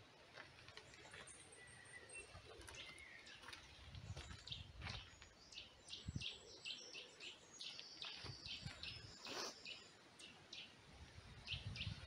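Wild songbirds singing and calling, faint. A fast run of repeated high notes comes in the middle, with scattered shorter chirps before and after, and a few low rumbles.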